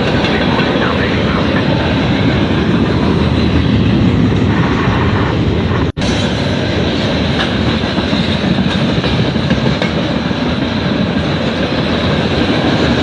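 Norfolk Southern freight train rolling past close by, a loud, steady noise of wheels on rail. A split-second dropout breaks it about halfway through.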